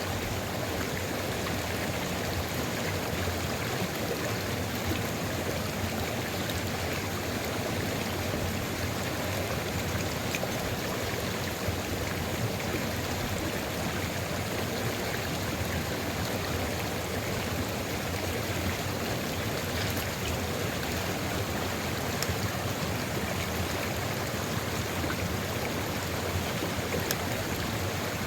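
Sulfur river at Ijen crater flowing steadily, an even rush of running water with a few faint clicks.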